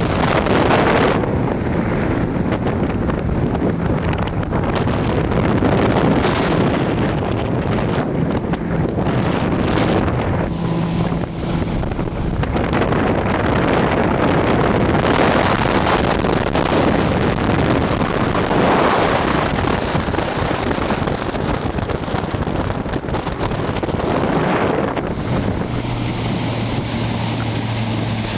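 A 19-foot Tidewater boat's outboard motor running under way, with wind buffeting the microphone. A steadier low hum comes through about 25 seconds in.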